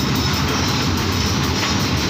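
Freight train of rail tank wagons rolling past at close range: a steady rumble of steel wheels on the rails.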